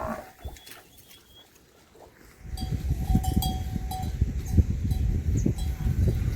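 A cow's moo ends right at the start. From about two and a half seconds in, a livestock bell clinks and rings over a low rumble full of knocks.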